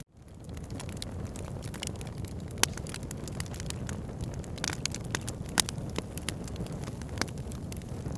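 Wood fire burning in a fireplace: a steady low rumble of flames with frequent sharp crackles and pops, the loudest about two and a half and five and a half seconds in. The sound cuts out for an instant right at the start, then swells back in.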